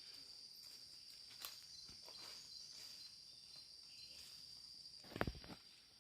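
Insects chirring with one steady high-pitched tone, with faint scattered ticks. About five seconds in, a short cluster of loud knocks.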